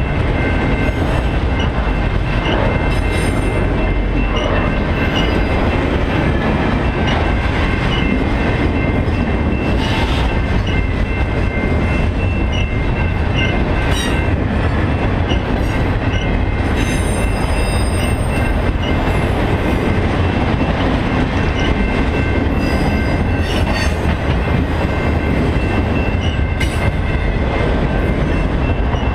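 Freight train of autorack cars rolling past at close range: a steady rumble of steel wheels on rail with clicking over the rail joints. High-pitched wheel squeals come and go, the longest about two thirds of the way through.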